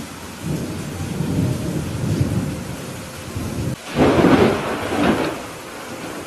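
Thunderstorm: steady rain with rolling thunder, a low rumble through the first few seconds, then a louder, sharper thunderclap about four seconds in that dies away over a second or so.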